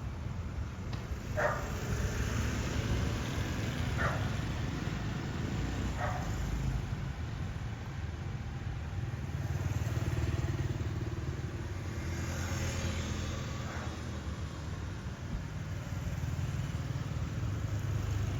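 Street traffic, mostly motorbikes and cars, running as a steady low rumble that swells as vehicles pass near the middle. A dog barks three times in the first six seconds.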